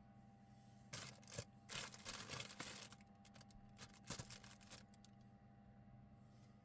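A quick, irregular run of small clicks and rustles over a faint steady hum, like something being handled close by.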